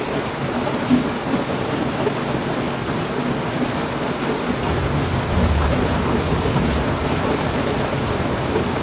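Heavy rain falling steadily, with a low rumble of thunder building about halfway through.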